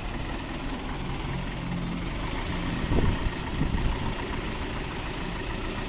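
Truck engine idling with a steady low rumble and a single knock about three seconds in.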